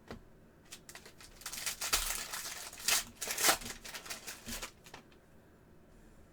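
Foil trading-card pack wrapper being torn open and crinkled. A few light clicks come first, then about a second and a half in a burst of crinkling that lasts about three seconds before it dies away.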